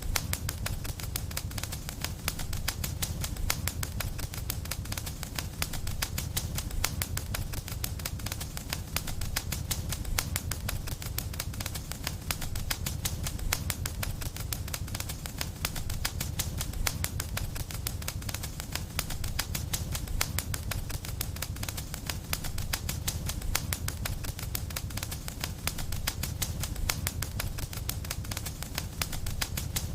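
Wood fire burning in a fireplace: a dense, continuous crackle of small pops and snaps over a low, steady rumble of flames.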